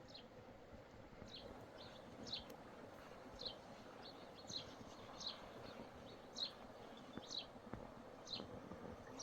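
A small bird calling outdoors: short, high, downward-sliding chirps, about one a second and some in quick pairs, over a faint steady background hiss.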